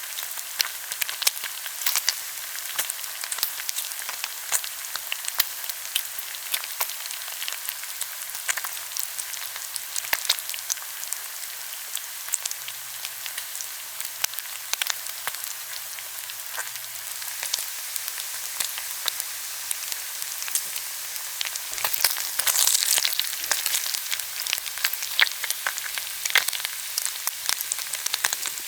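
Pork belly sizzling as it grills, a steady hiss with frequent sharp pops and crackles of spitting fat. It grows louder and denser for a couple of seconds about two-thirds of the way through.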